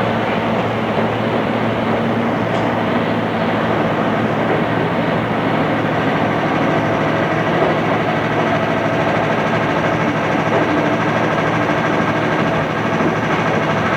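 Interior sound of a JR East 211 series electric multiple unit: a steady rumble and hum with faint steady tones, even in loudness throughout.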